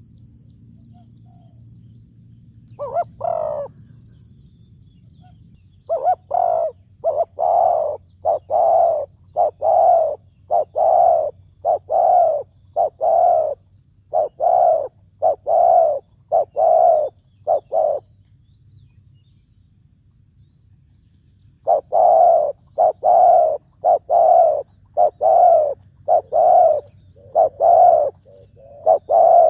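Spotted dove cooing: a short pair of coos about 3 s in, then long runs of rhythmic coos, roughly one a second, from about 6 to 18 s and again from about 22 s on. Faint short high chirps repeat in the background.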